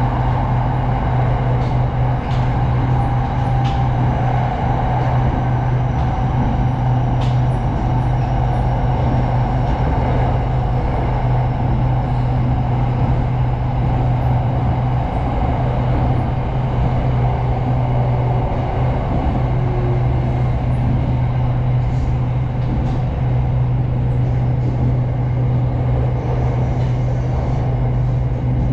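SRT Red Line electric commuter train running steadily, a constant low hum under a rushing noise, with a few faint clicks.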